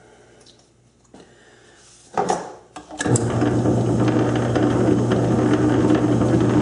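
South Bend lathe started up: a clunk about two seconds in, then the motor and drive run with a steady hum.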